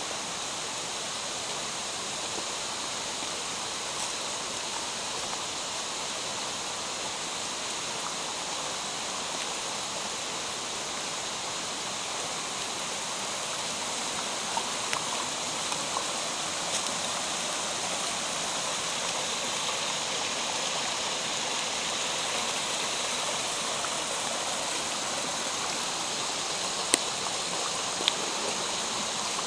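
Mountain stream water rushing steadily over rocks in a gorge, growing slightly louder partway through. A few faint ticks come about halfway through, and two sharp clicks come near the end.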